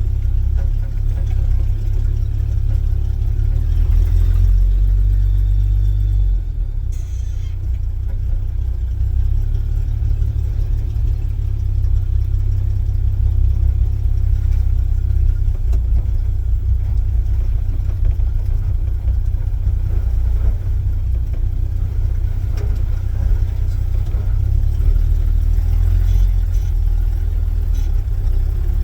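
1972 Chevy C10 pickup's engine running, a steady low rumble with slight swells in revs.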